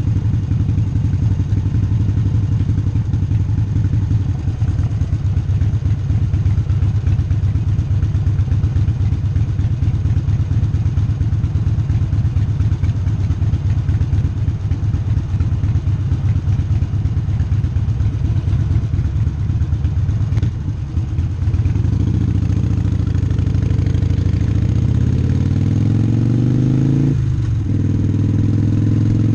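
Harley-Davidson Sportster's air-cooled V-twin idling with a steady low pulse. About two-thirds of the way through it pulls away, the revs climbing, with a gear change near the end before the revs rise again.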